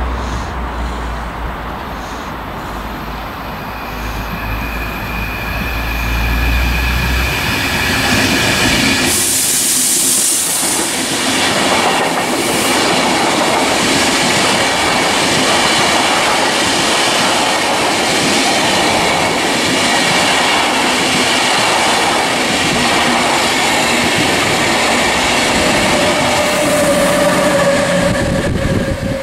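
A train passing close by. A low rumble as it approaches, then from about nine seconds in the loud, steady noise of the train running past, which drops away near the end.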